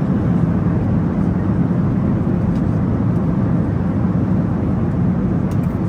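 Steady low rumble of cabin noise inside a Boeing 737-800 in flight, engine and airflow noise heard from a passenger seat, with a few faint ticks.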